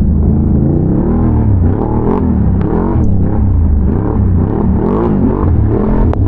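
Can-Am Renegade ATV's V-twin engine under way, revving up and down repeatedly as the throttle is worked over rough ground, over a steady low rumble.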